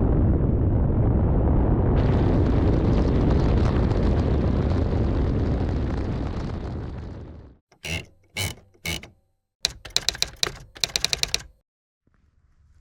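Edited intro sound effects: a loud rumbling noise that fades away over about seven seconds, then three sharp hits and a quick rattle of clicks, then silence.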